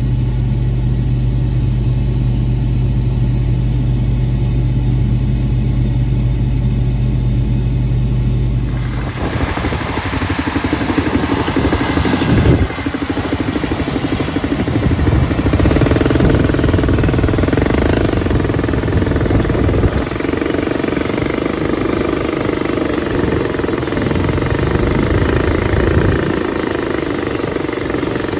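Combine harvester running in a soybean field. A steady low drone for about the first nine seconds changes suddenly to a louder, rougher rumble of machinery.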